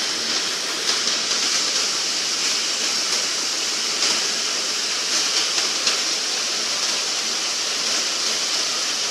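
Heavy rain falling steadily, a dense hiss with a few sharper taps here and there.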